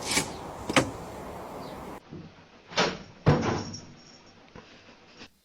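Four sharp knocks and thuds, in two pairs about half a second apart with a cut between them; the last thud is the loudest.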